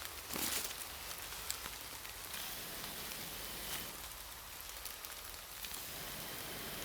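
Light rain falling in woodland: a steady hiss with scattered sharp drop ticks, and a brief louder rush about half a second in.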